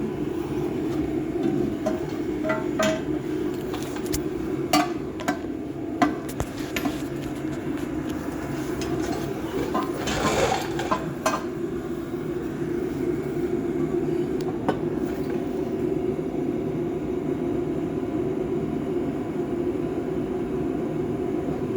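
Scattered metal clinks and knocks of tools and exhaust parts being handled, mostly in the first half, over a steady low hum. A short rushing noise comes about ten seconds in.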